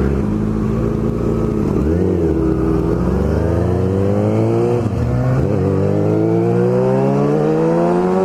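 Inline-four 600cc sport bike engine under way. It holds a steady note, dips briefly about two seconds in, then rises steadily in pitch as the bike accelerates through the gear.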